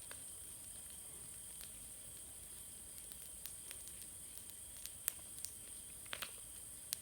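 Bonfire of dry leaves, grass and branches burning down, with a steady hiss and scattered sharp crackling pops every second or so.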